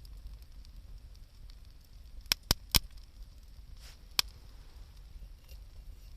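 Campfire burning with faint crackling and four sharp wood pops: three in quick succession a little over two seconds in, then one more about two seconds later.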